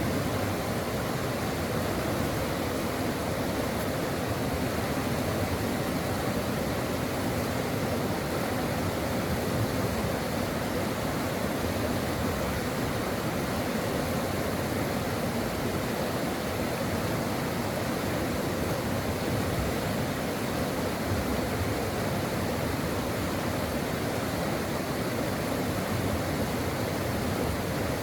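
Brook water rushing over rocks, a steady, unbroken rush with no change in level.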